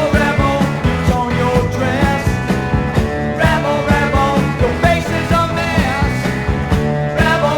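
Glam rock record playing from vinyl: a driving electric guitar riff over bass and drums, with a male voice singing.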